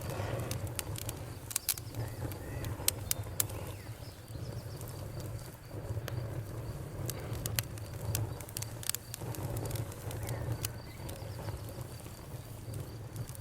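Bonfire crackling, with sharp, irregular pops over a low, steady rumble of burning wood. A faint, steady high trill of crickets runs underneath.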